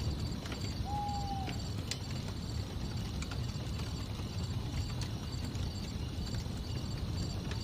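Campfire burning: wood crackling and popping in scattered sharp clicks over a low, steady rumble. Crickets chirp steadily in the background, and a short whistling tone sounds once about a second in.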